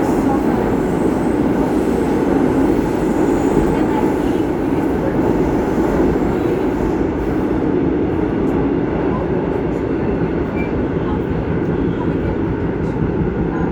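Subway train running: a steady, loud noise of the train moving along the track.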